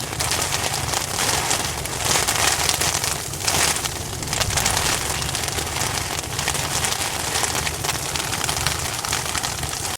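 Hailstorm: hail and rain pelting down in a dense, continuous patter of small hits.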